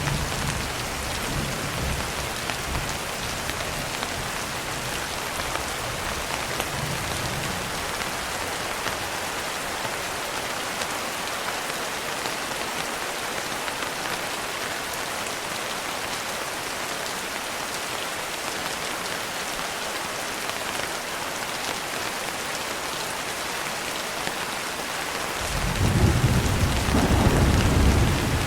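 Steady rain falling on a window. A low thunder rumble fades out in the first couple of seconds, and a louder roll of thunder comes in about 25 seconds in and runs on.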